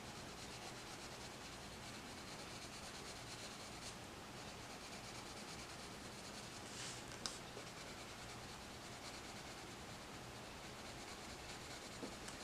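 Faint, steady scratching of a coloured pencil being stroked back and forth over paper, shading in colour, with one brief tick about seven seconds in.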